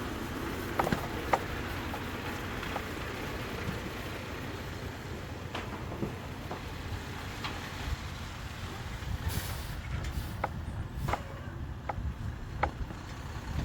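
Semi truck running steadily at the dump, with scattered metallic clanks and knocks and a short hiss of air about nine seconds in.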